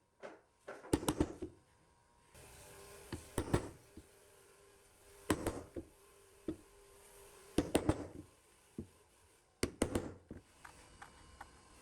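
Clusters of sharp knocks and clanks from handling parts and tools at the workbench, one group every two seconds or so, over a faint steady hiss.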